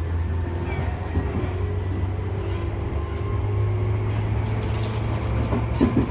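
Tobu 10000 series field-chopper electric train heard from inside the passenger car while running: a steady low hum and rumble from the traction motors and wheels, with faint thin whining tones above it. A few short clacks come near the end.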